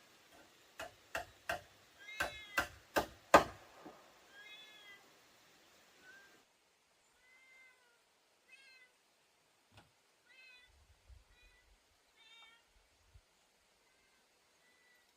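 About seven sharp knocks in quick succession over the first few seconds, followed by a series of short, high, arching animal calls, meow-like, repeated every second or so.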